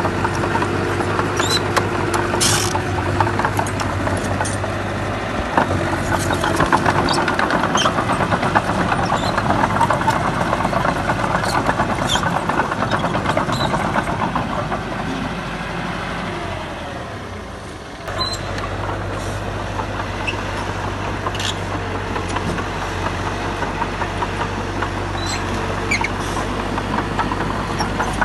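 Heavy diesel construction machinery running steadily, with scattered sharp clanks and knocks over the engine. About 18 seconds in, the sound dips and then changes abruptly.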